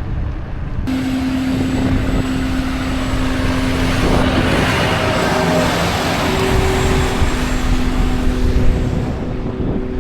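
Tractor-mounted hedge cutter running: a steady engine hum starts about a second in and holds, with a rushing noise that swells in the middle.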